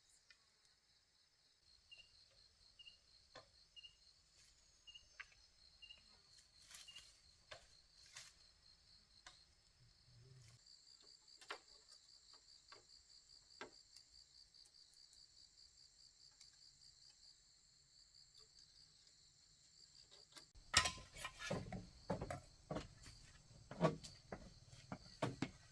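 Insects, crickets, trilling steadily in a rapid high pulse, with a second trill joining about ten seconds in and a short chirp repeating about once a second early on. Scattered faint clicks, then a run of louder knocks and thumps near the end.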